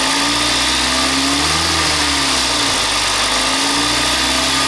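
Hyundai/Kia 2.0-litre four-cylinder petrol engine raised to about 2000 rpm, its pitch rising and easing back twice. At these revs the knock that the owner puts down to the timing chain or cam phasers is hard to hear.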